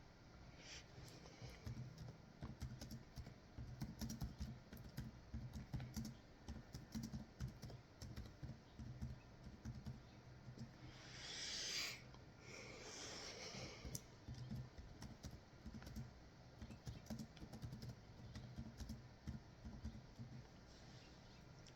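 Faint typing on a computer keyboard: a continuous run of soft key clicks, with a short hissing rush about halfway through.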